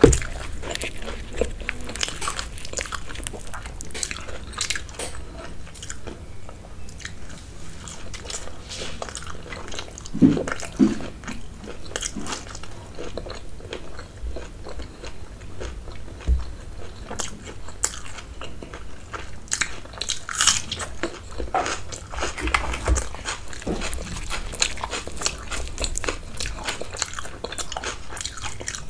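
Close-miked eating sounds: a person chewing and biting into puris dipped in curry, with a steady, irregular stream of small crunches, wet mouth clicks and smacks.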